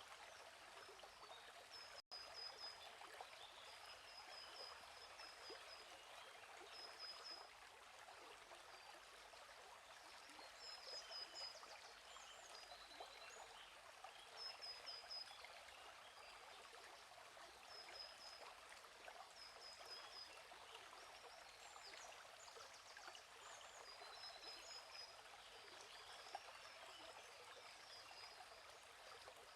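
A gently flowing stream runs steadily, with small birds chirping in short repeated trills every second or two. The sound cuts out for an instant about two seconds in.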